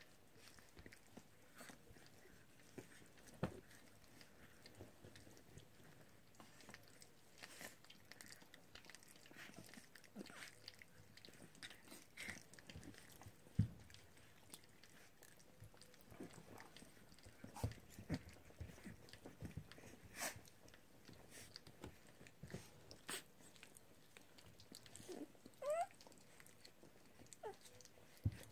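Puppies chewing and biting at play: scattered soft clicks, knocks and gnawing sounds, with a brief high squeak near the end.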